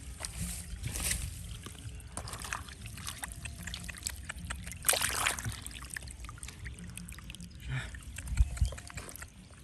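Water sloshing and trickling with scattered small clicks and knocks of hands working in it, and a louder splash about five seconds in.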